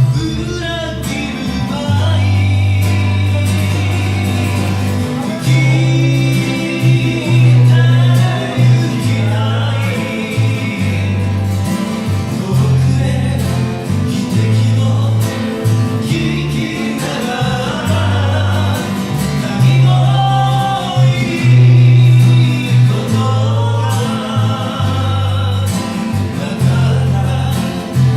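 A live song: a voice singing over guitar, with deep bass notes changing every second or two.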